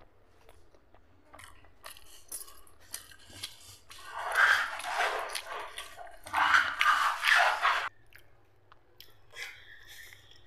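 Close-miked chewing and wet mouth sounds of a person eating a mouthful of rice and curry, with small smacking clicks and two louder, longer stretches of chewing noise in the middle.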